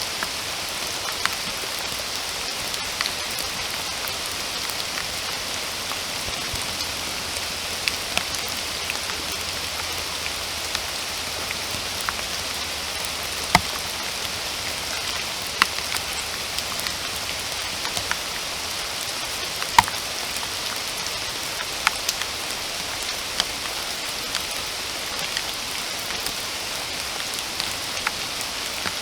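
Steady rain falling, an even hiss with louder single drops ticking sharply every second or two.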